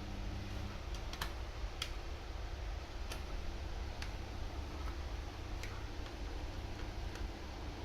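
About six light, sharp clicks at irregular intervals over a steady low hum.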